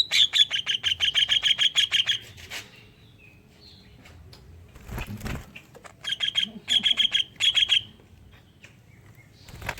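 Greater green leafbird (cucak ijo) singing fast trills of sharp repeated notes in imitation of a kingfisher's (tengkek udang) call: one trill of about two seconds at the start, then three short bursts around six to eight seconds in. Two dull thumps, about five seconds in and near the end.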